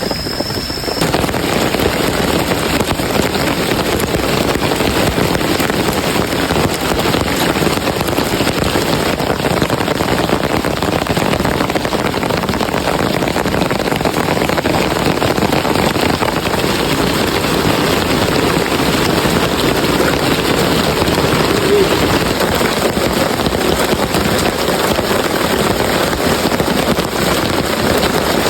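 Heavy rain pouring down steadily: a dense, even hiss that grows louder about a second in and then holds.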